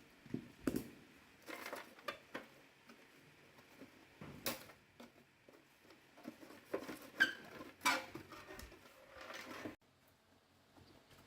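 Scattered light clicks, knocks and scrapes of hand work with tools or parts, irregular, with sharper knocks around the middle; the sounds stop abruptly near the end.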